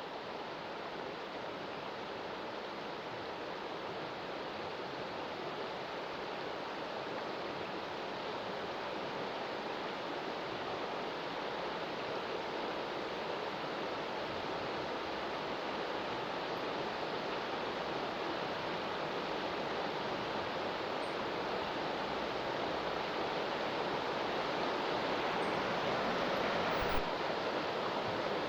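Rain-swollen mountain stream rushing in full spate, an even roar of water that grows slowly louder. A single short thump near the end.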